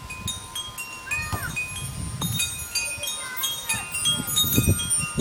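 Wind chimes tinkling in a gusty wind: many short, clear ringing notes at different pitches, irregular and overlapping, over wind buffeting the microphone in low rumbling gusts.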